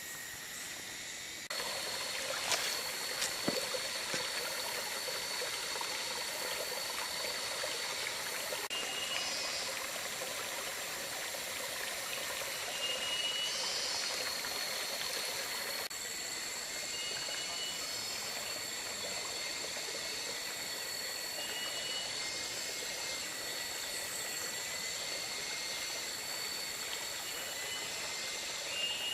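A forest stream running, with a steady hiss of water. Over it, insects hold steady high-pitched buzzing tones, and short high chirps repeat every few seconds.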